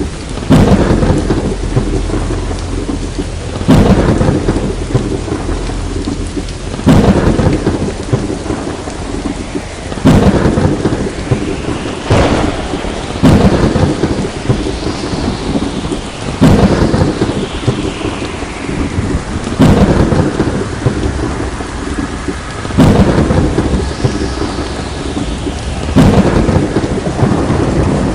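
Steady heavy rain with thunder cracking and rumbling over and over, a new clap breaking in about every three seconds and fading into a low rumble. Nine claps in all, at a very even spacing.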